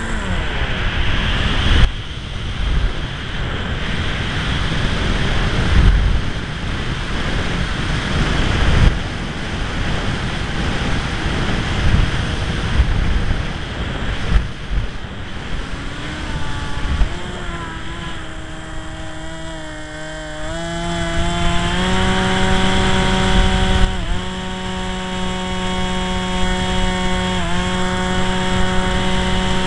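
Strong wind buffeting the microphone in gusts. About halfway through, an RC model plane's motor whine comes in, rising in pitch in steps and then holding steady.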